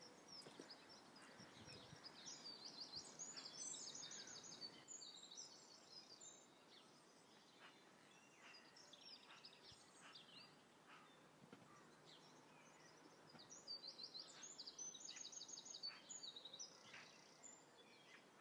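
Faint songbird song outdoors: two spells of quick, repeated high chirping notes, about two seconds in and again near the end, over quiet outdoor background.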